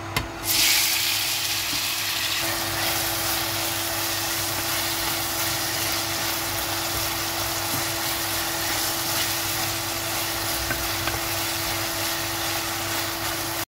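Chopped tomatoes and onions hitting a hot stainless-steel frying pan, with a loud burst of sizzling about half a second in, then sizzling steadily as they are stirred with a wooden spoon. A steady low hum runs underneath.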